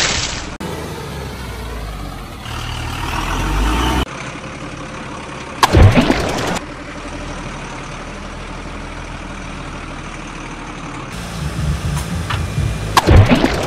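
Vehicle engine sounds, spliced together with abrupt cuts between them, and two loud crashes about six and thirteen seconds in.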